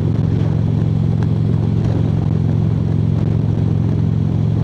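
Harley-Davidson V-twin motorcycle engine running at a steady highway cruise, a constant low drone heard from the rider's seat under a steady rush of wind and road noise.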